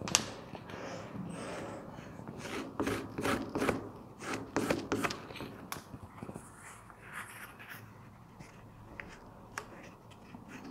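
Wood carving tool being stropped on a leather strop to finish the edge after sharpening: a series of short rubbing strokes, busiest a few seconds in and lighter towards the end, with a sharp knock at the start.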